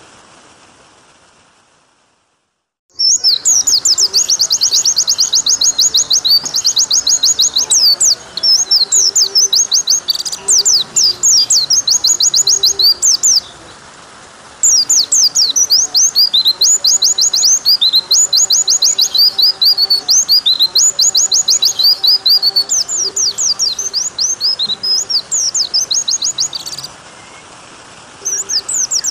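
White-eye (pleci) singing long, rapid, high trilled phrases, coming in about three seconds in after a brief silence, with two short pauses, one near the middle and one near the end.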